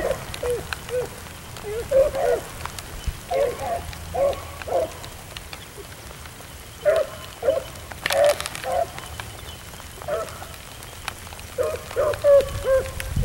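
Beagles baying on a rabbit's trail, the bays coming in bunches of several with short gaps between, over the steady patter of rain.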